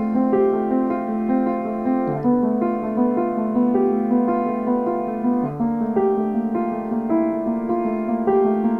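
Piano music with slow, held chords and a low bass note returning about every three seconds.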